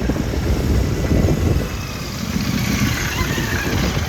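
Royal Enfield Himalayan 450 motorcycle's single-cylinder engine running with a steady low rumble.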